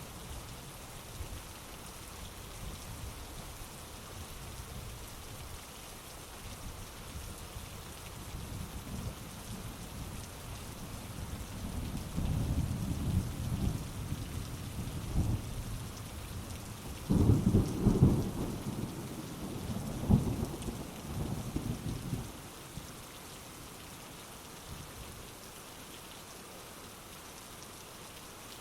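Heavy rain falling steadily, with a roll of thunder that builds about a third of the way in, peaks in a loud crack a little past the middle, and rumbles away a few seconds later.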